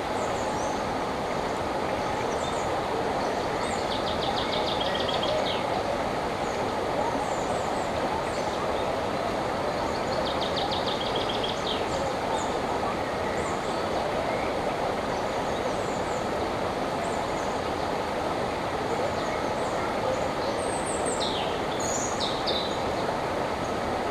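Steady rush of a flowing river with songbirds singing over it: a short trilled phrase repeated every six seconds or so, scattered high chirps, and a few sharper calls near the end.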